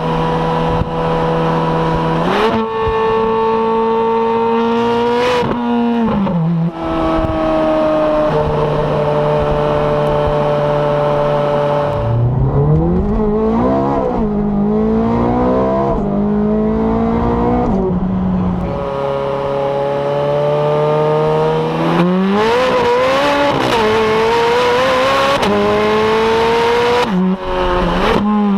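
Ferrari 430 Scuderia's 4.3-litre V8 under way, running at a steady pitch in some stretches and climbing in revs in others, with sudden drops in pitch at the gear changes.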